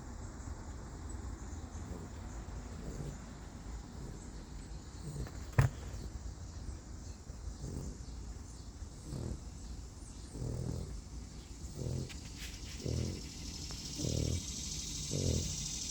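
Dog snoring in a steady rhythm, about one snore a second, starting faint midway and growing louder toward the end. A single sharp click about five and a half seconds in.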